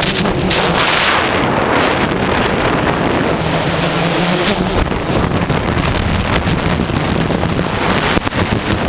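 Strong gusty wind buffeting the microphone over the steady hum of a DJI S1000 octocopter's motors and propellers in flight.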